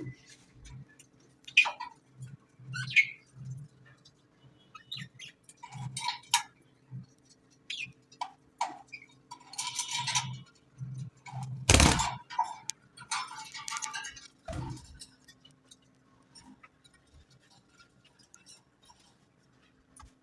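Pet budgerigar chirping and chattering in short, scattered calls, with a loud sharp knock about twelve seconds in and quieter calls towards the end.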